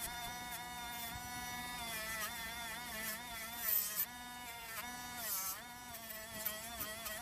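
Small handheld rotary tool running with a high buzzing whine. Its speed sags twice as it is pressed against the metal body of a diecast car, likely driving a Scotch-Brite abrasive pad, with a brief scratchy hiss at those moments.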